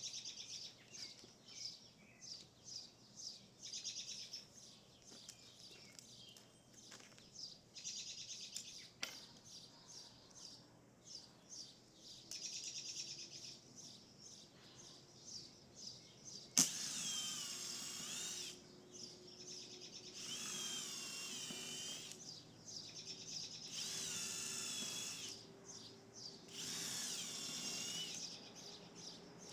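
Birds chirping and trilling outdoors. About halfway through, a cordless power drill starts running in four bursts of roughly two seconds each, a high whine, with the birds still faintly heard.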